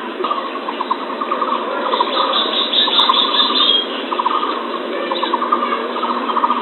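Birds calling in a band-limited recording: rapid repeated trilled notes throughout, with a higher chattering run about two to four seconds in, over a steady background hiss.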